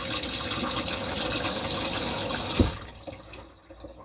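Water running steadily from a kitchen tap. It stops about two and a half seconds in, together with a single knock.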